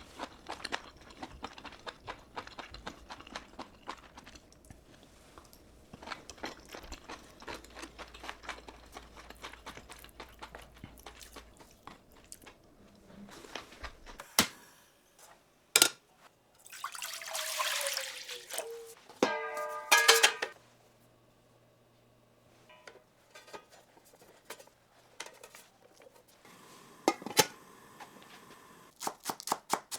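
Kitchen food-prep sounds: many light clicks and knocks of utensils and dishes, and liquid poured for a couple of seconds a little past halfway.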